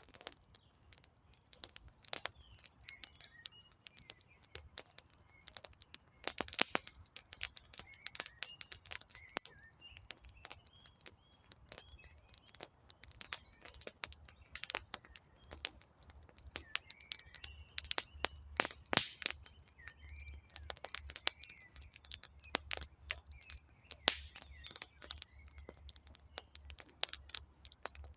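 Wood fire crackling with irregular sharp pops, a few louder ones a quarter of the way in and around two-thirds of the way through, while small birds chirp and twitter throughout.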